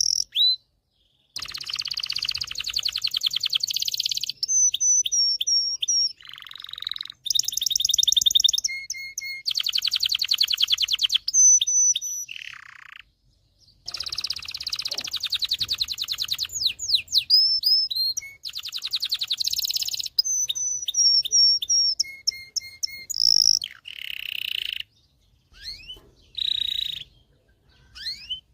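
Domestic canary singing: a long song of rapid trills and rolls alternating with short clear whistled notes and quick upward and downward glides, broken by a few brief pauses.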